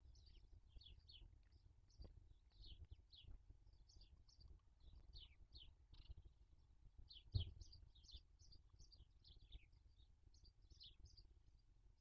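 Faint small-bird chirping: a steady run of short, high, falling chirps, several a second. A single dull thump comes about seven seconds in.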